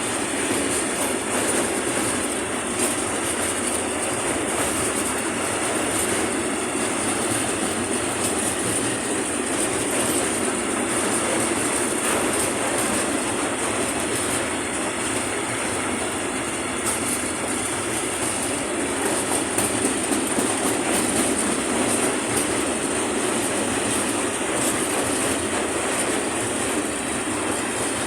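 Train rolling past a railway level crossing, with a steady rumble and wheels clacking over the rail joints.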